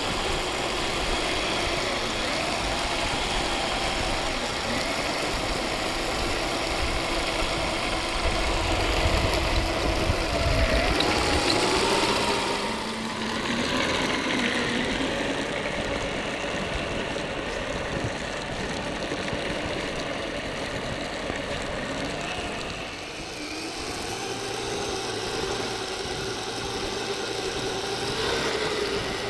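A motor running throughout, its pitch rising and falling a few times.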